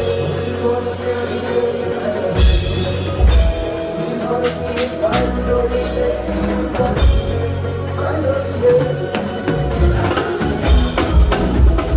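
Live band playing, with a drum kit and a deep bass line carrying the music.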